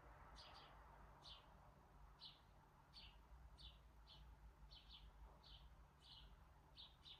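A small bird chirping over and over, faint, a little under two short chirps a second, over a low steady hum.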